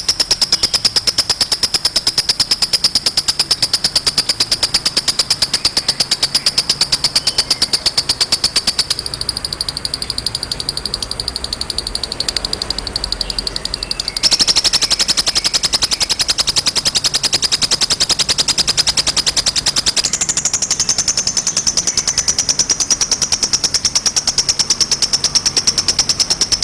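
A kolibri (sunbird) singing a fast, unbroken high trill of rapidly repeated notes. The pitch and loudness shift abruptly about 9, 14 and 20 seconds in, where the recording is spliced.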